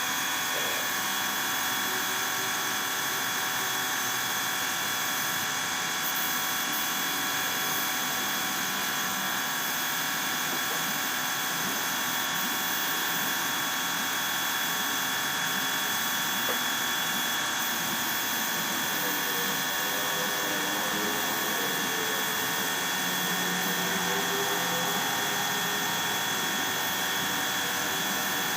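A power tool running steadily and without a break, with a constant whine.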